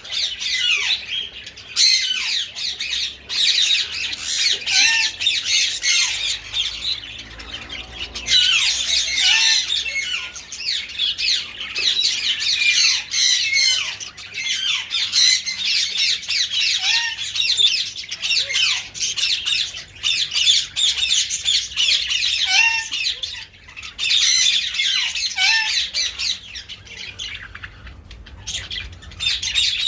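A flock of small breeding aviary birds chirping and squawking together, a dense stream of short high calls that overlap, with brief lulls here and there.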